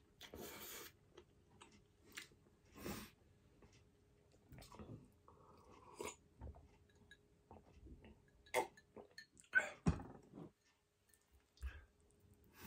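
Close-miked chewing and mouth sounds of someone eating baked salmon and rice, with a pause to sip a drink from a glass partway through. Several sharper clicks come about two-thirds of the way through.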